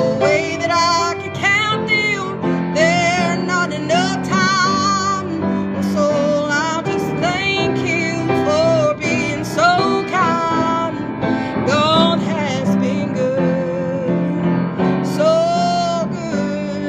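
Music: a woman singing held notes with vibrato over an instrumental accompaniment.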